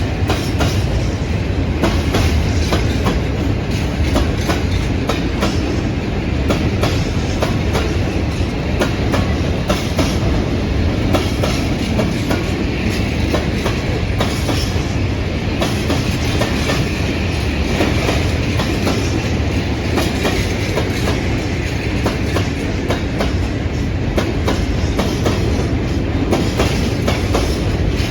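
Train running past at close range, its wheels clattering steadily over the rail joints with continuous rumbling for the whole stretch.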